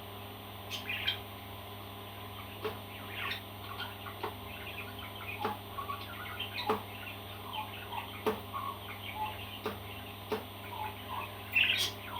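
A pet parrot's soft chirps and short squawks, with a sharp click every second or so; the loudest squawk comes near the end.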